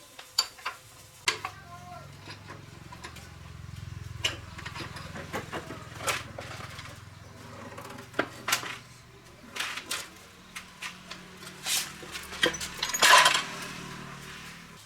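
Metal tools and engine parts clinking and knocking irregularly over a low steady hum, with a short, louder scraping rasp near the end.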